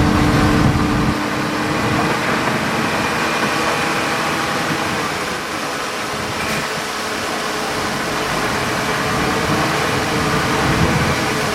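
Heavy diesel engine of a bulldozer running steadily, a little louder in the first second.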